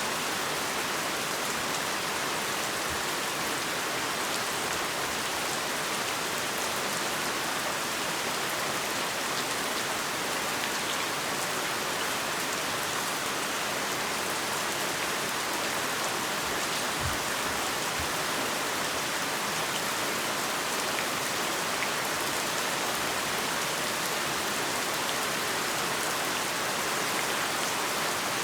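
Heavy rain falling steadily, a dense even hiss with the patter of drops hitting a surface.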